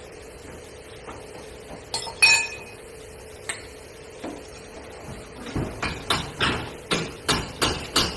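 Hammer blows on vehicle sheet metal during body repair: one sharp, ringing metallic strike about two seconds in, then a quick run of knocks, about three a second, through the second half.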